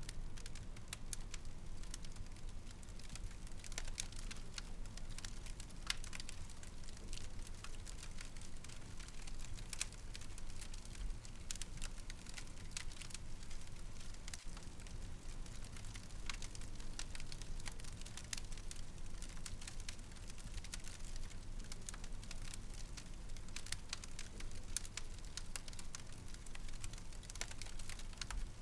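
Fireplace fire crackling with frequent irregular sharp pops and snaps over a low, steady rumble.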